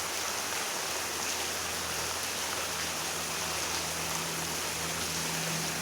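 Steady hiss of heavy rain falling in a storm, with a faint low steady hum coming in about two seconds in.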